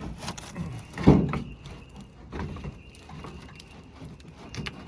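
Several knocks and scrapes from pieces of an old truck camper's body being pried loose and pulled out, with the loudest knock about a second in.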